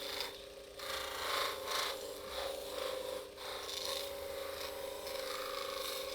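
Irregular scraping strokes over a steady hum, starting and stopping abruptly.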